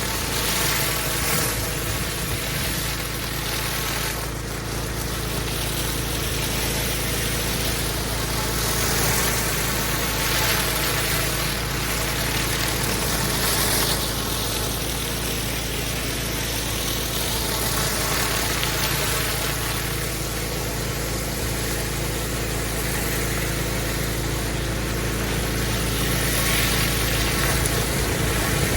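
Pressure washer running steadily during a block-paving clean: a constant engine hum under the hiss of the high-pressure water jet, which swells and fades in slow waves.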